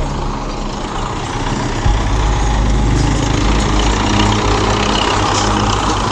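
Belarus 510 tractor's diesel engine running steadily, with a sharp knock about two seconds in, after which the low engine note grows louder.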